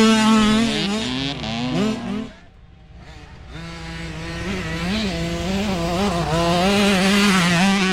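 Mini dirt bike engines revving hard, their pitch rising and falling with the throttle. The first bike fades out about two and a half seconds in, then another builds up and runs on.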